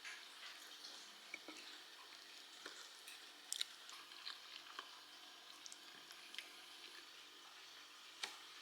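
Near silence in a small room, with faint scattered small clicks and taps, a little louder twice.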